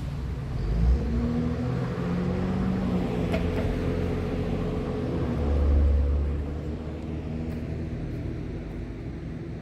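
A motor vehicle's engine running, a steady low rumble with a faint hum, swelling briefly about a second in and again around six seconds.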